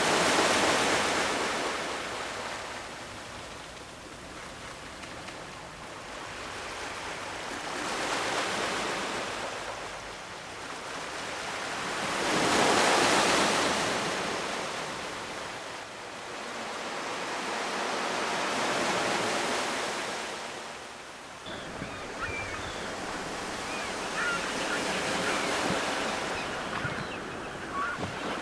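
Ocean surf: waves breaking and washing up the shore one after another, each rising and falling over several seconds, about five in all, the loudest midway.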